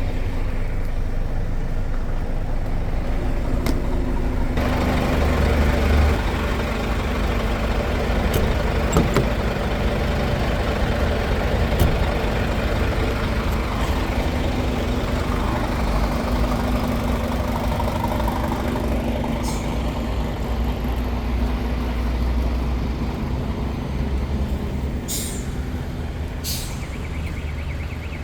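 Container truck's diesel engine running under way, heard from inside the cab, with steady engine hum and road noise that grows louder about four seconds in. Two short hisses of air near the end.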